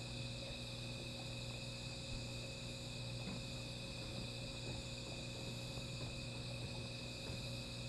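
Chorus of night insects trilling steadily and unbroken, over a steady low hum, with a few faint clicks.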